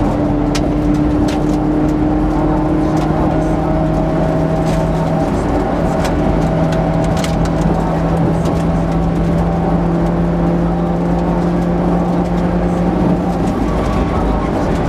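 Mitsubishi Lancer Evolution VIII's turbocharged four-cylinder engine pulling hard at speed, heard from inside the cabin. The engine note stays fairly steady over road and tyre noise, with a short break about five seconds in and another near the end.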